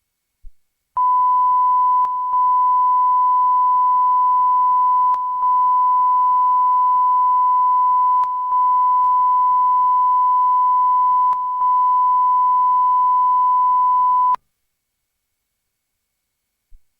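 Steady test tone at a single pure pitch, like the line-up tone at the end of a tape, running for about 13 seconds with short dips about every three seconds, then cutting off suddenly.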